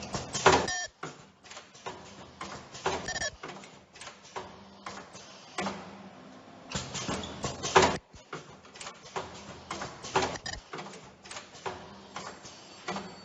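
Automatic ear-loop welding machine running, with irregular mechanical clicks and clacks several times a second; the loudest come about half a second in and about eight seconds in.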